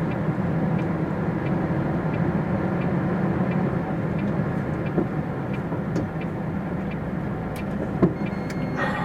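MAN TGX truck's diesel engine running steadily, heard from inside the cab, with a faint regular tick about once a second and a sharp knock about eight seconds in.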